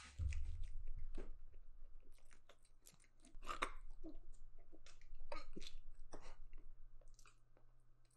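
A person chewing a mouthful of cakey, mayonnaise-covered pancake close to a microphone: wet, irregular mouth clicks and squelches throughout, with a sharp click as the bite goes in at the start.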